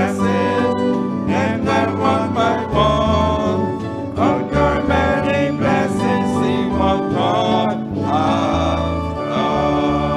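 Church hymn played on piano and organ, with voices singing along.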